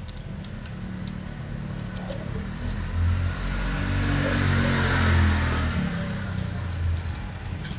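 A motor vehicle passing by. Its engine and tyre noise swell to a peak about five seconds in and then fade away. A few light metallic clinks are heard near the start and the end.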